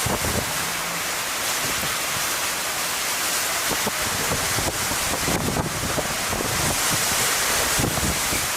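Strong storm wind buffeting the microphone: a steady rush of noise with low, gusting thumps underneath.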